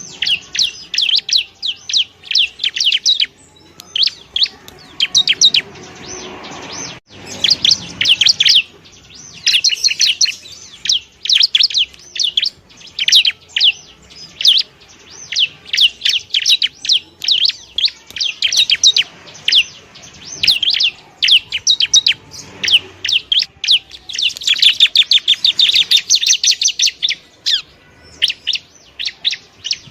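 Bar-winged prinia (ciblek) song: rapid, high-pitched chirping notes strung into long chattering runs with brief pauses. A single sharp click sounds about seven seconds in.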